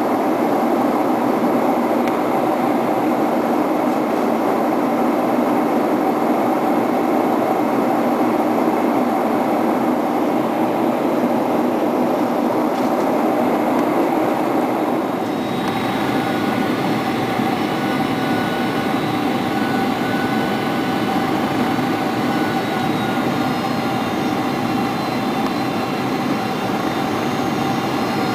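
Steady cabin noise inside a Boeing 747-400 on approach: rushing air and jet engine drone with a constant hum. About halfway through the noise changes character and faint higher whines join in.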